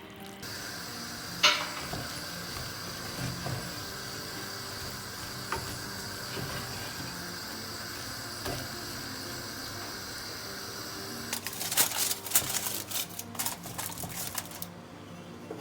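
Food sizzling in a pan: a steady hiss with a few light clicks, then about three seconds of dense clattering from pan and utensils near the end.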